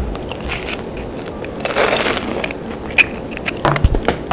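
Close-up crunching and chewing of a deep-fried sweet potato cheese ball, its crisp fried shell breaking in a run of crackly crunches, loudest a couple of seconds in, with a few sharp clicks near the end.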